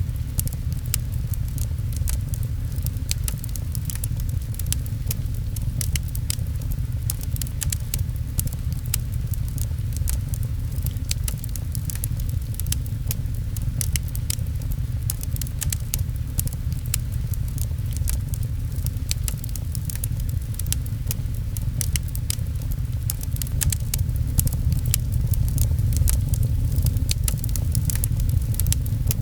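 Fireplace crackling with frequent small sharp pops over a steady low rumble of rain, growing a little louder near the end.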